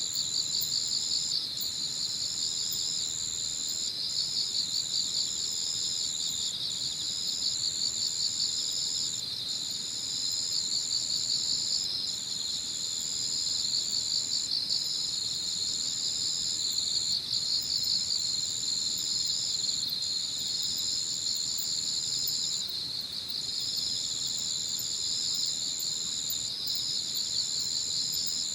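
Evening chorus of singing insects, crickets among them: a high, steady trill broken by short gaps about every second and a half, over a lower, fast-pulsing chirring.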